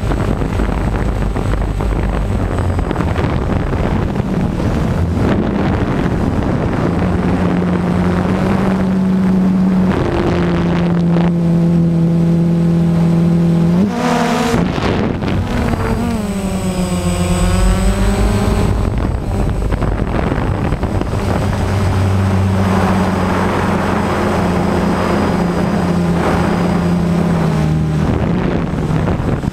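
Engine running steadily, its pitch stepping up and down several times, with a brief dip and rise in speed about halfway through.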